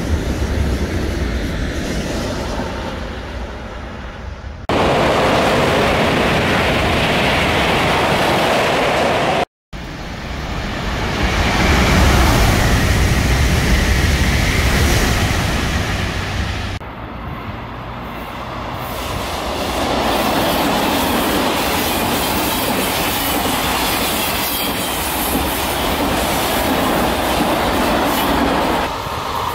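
KTX-Sancheon high-speed electric trains passing: a steady rushing rumble of wheels on rail. It comes in several takes joined by abrupt cuts, with a moment of silence about ten seconds in.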